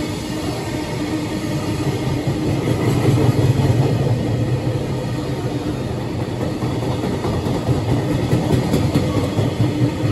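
Container freight train passing through at speed: a steady rolling rumble from its loaded container flatcars running over the rails.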